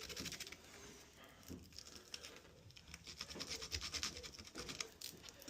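Wood chisel paring thin shavings from the edge of a door's lock cut-out by hand: faint, fine, rapid scratching in short bursts, the strongest from about three to four and a half seconds in.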